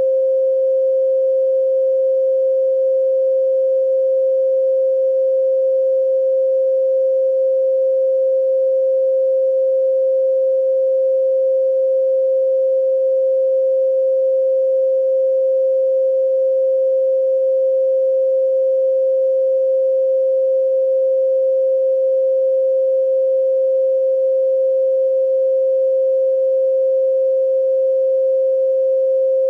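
A pure 528 Hz sine tone held steady and unchanging.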